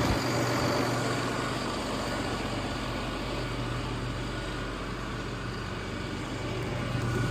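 Box truck engine idling steadily with a low, even hum.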